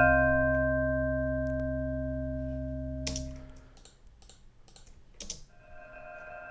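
A dry software vibraphone chord struck once and dying away over about three and a half seconds. It is followed by a few computer clicks, then the same chord returns as a soft, swelling reverb pad near the end.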